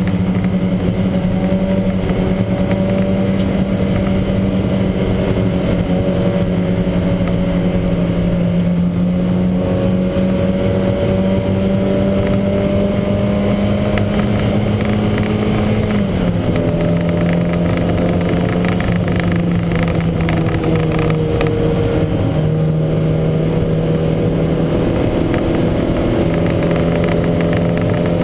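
Lancia Montecarlo's four-cylinder race engine running hard under load, running with a heavy misfire. Its note creeps slowly upward, drops suddenly about halfway through, then steps down and back up again near the end.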